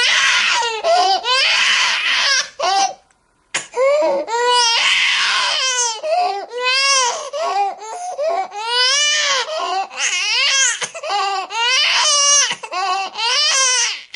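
Infant crying: a run of short wails, each rising and falling in pitch, one after another with gasps between. There is a brief break about three seconds in, then the crying carries on.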